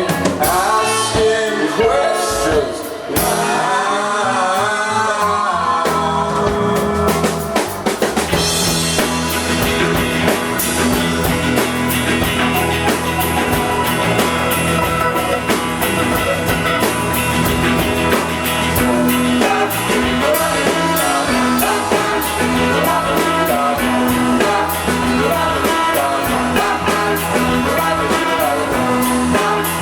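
Live rock band playing in a small club: a sung line carries through the first few seconds, then the full band with drums and guitar comes in thicker and brighter about eight seconds in and keeps going.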